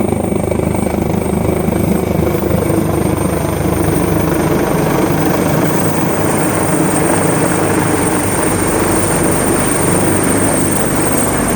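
Firefighting helicopter running loud and close, its rotor beating steadily under a constant high whine.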